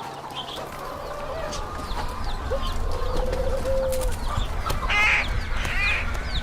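Chickens clucking among small birds chirping over and over, with a longer trilled call partway through and louder clucks near the end.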